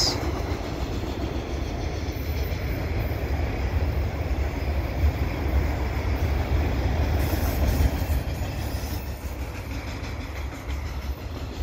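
Auto rack freight cars of a CN freight train rolling past, a steady rumble of steel wheels on the rails.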